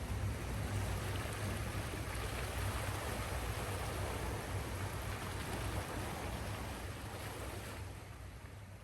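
Steady sound of surf and wind with a low rumble underneath, fading out near the end.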